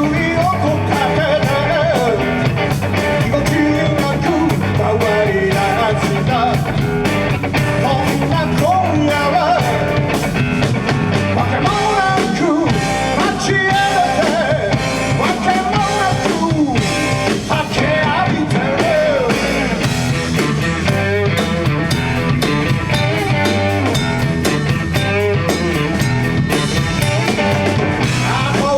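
Rock band playing a song with drum kit and guitar, a lead melody line bending and wavering in pitch over a steady full backing.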